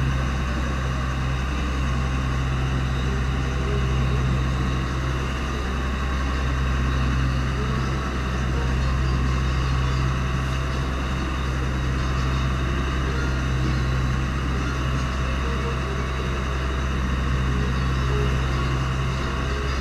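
Fishing boat's engine running steadily: a constant low drone that does not change in pitch or level.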